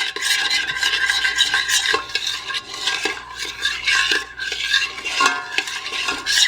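A utensil stirring and scraping in a metal pot in quick, repeated strokes, dissolving gelatin in warm water.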